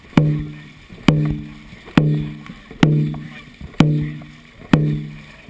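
Dragon boat drum beaten at a steady stroke pace, about one hit a second, each hit ringing with a low tone that fades before the next.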